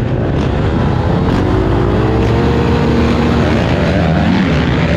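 Dirt bike engine running loud at high revs, its pitch rising about a second and a half in and then holding.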